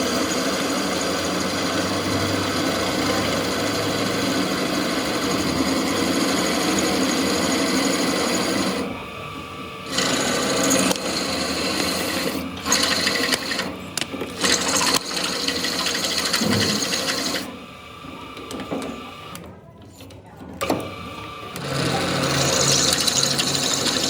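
Workshop machinery running steadily, with a brief drop about nine seconds in, then uneven bursts and a quieter lull before it runs loud again near the end.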